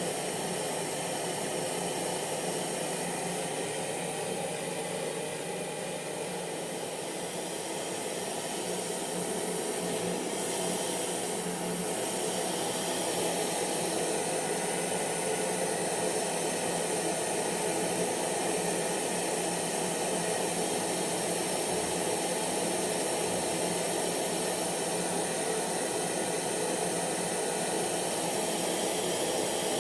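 Hair dryer running steadily: an even rushing air noise with a faint steady motor hum underneath.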